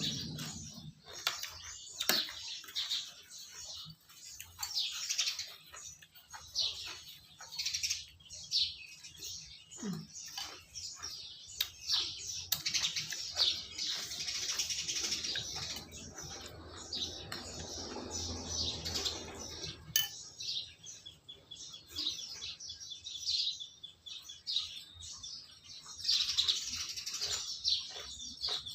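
Small birds chirping again and again, with occasional clinks of tableware.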